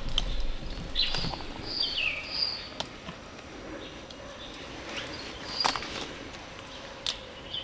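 Birds chirping outdoors: short high calls that slide downward, clustered in the first two seconds or so, with a few sharp clicks or snaps scattered through.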